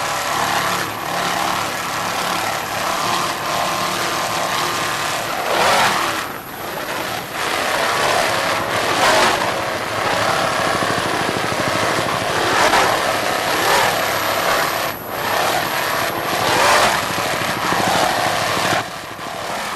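Offshore racing powerboat's engines running at speed, with rushing wind and water noise that swells and fades every couple of seconds.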